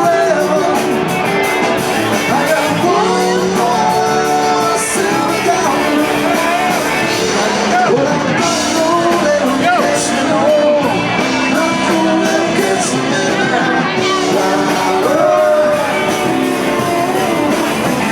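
A live rock band playing, with a singer and guitar.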